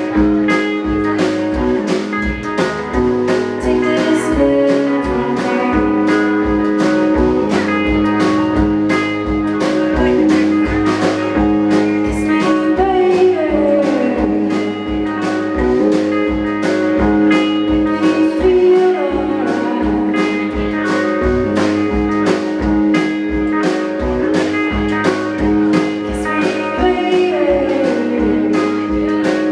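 A live blues band playing, with a steady drum beat under guitar and singing.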